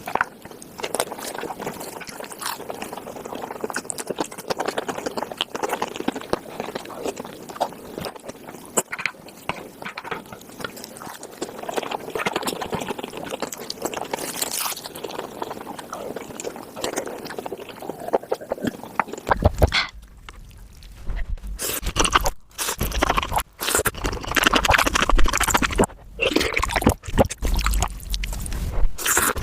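Mukbang eating sounds of Korean spicy tofu soup played at five times speed: rapid spoon scraping, slurping and chewing run together into a dense clatter. About two-thirds through it switches abruptly to a louder, busier eating recording with a low rumble underneath.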